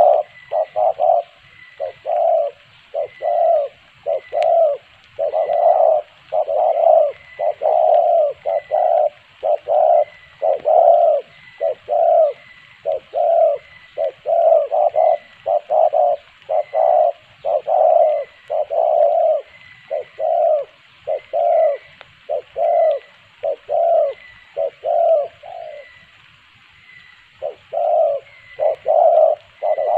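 Spotted dove cooing over and over in short repeated phrases, with a brief pause about 25 seconds in.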